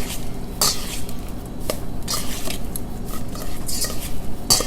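Two spoons tossing crisp fried spinach with spices in a bowl, with irregular clinks and scrapes of the spoons against the bowl and each other.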